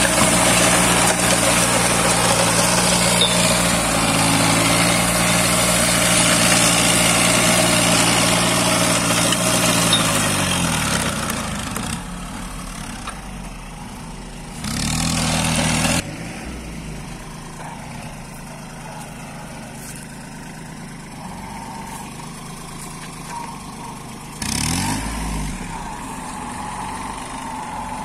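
Kubota 21 hp tractor's diesel engine running steadily at working speed, then slowing down about ten seconds in to a quieter, lower idle, with two brief revs later on.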